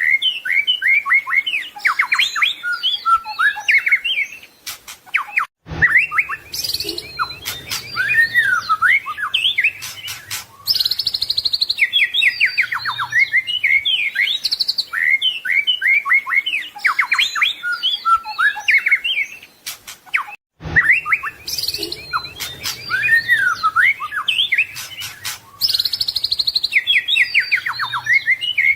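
White-rumped shama (murai batu) singing a varied song of whistles, rapid trills and chattering phrases. The same passage repeats about every fifteen seconds, with a brief cut in the sound twice.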